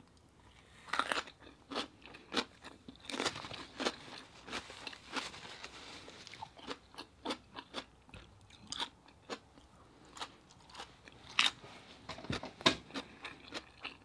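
A person chewing food close to the microphone: irregular wet mouth clicks, smacks and crisp bites, the loudest a little after the start and late on.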